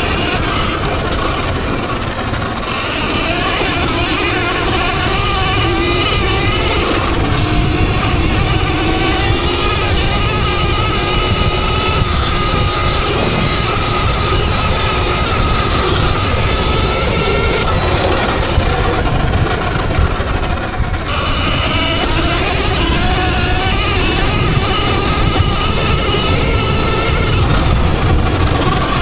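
Electric dirt bike on the move: the motor's whine rises and falls with speed over heavy wind and ground rumble.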